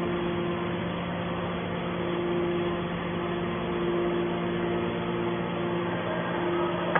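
Automatic hydraulic scrap-metal baler running: a steady machine hum from its motor and hydraulic pump, with a higher tone that drops out and comes back several times.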